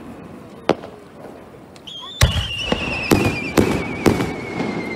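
Aerial fireworks bursting. A single sharp bang about a second in, then a long whistle that slowly falls in pitch, with a quick run of bangs at about two a second, the loudest just after it starts.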